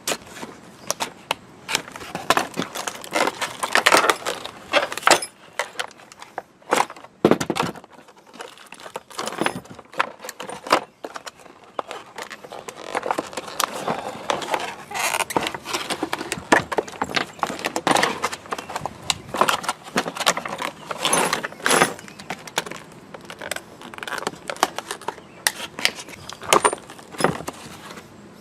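Metal light-bar mounting clamp parts being handled and unpacked: irregular clinking and rattling, many small clicks close together.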